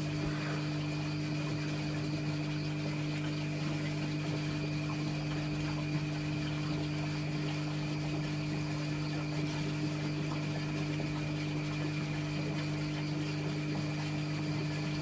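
A steady, even hum with a strong low tone and fainter higher tones, like a small motor or machine running.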